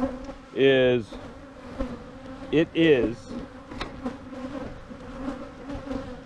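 Many honeybees flying close by, a steady buzzing hum; they come from a very defensive colony that has just been broken down into nucs.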